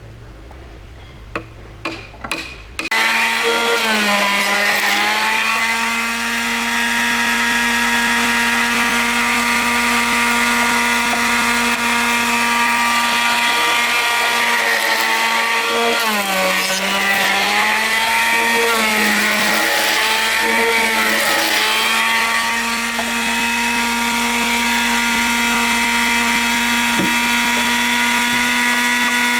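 A few clicks, then an electric power tool's motor switches on about three seconds in and runs with a steady high whine. Its pitch sags briefly several times as the tool comes under load in the wood.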